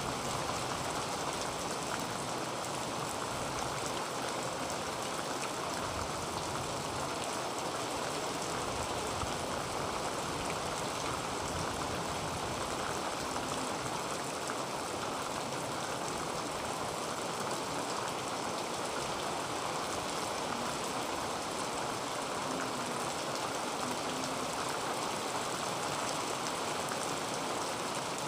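Heavy rain falling steadily on a tin roof, a dense unbroken patter of drops.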